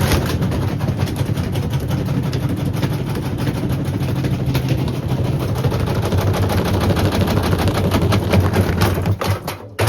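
Beko WM74135 washing machine running with a 5-litre bottle in its drum: a steady motor hum with rapid clattering and knocking of the bottle against the drum. The sound drops out briefly just before the end.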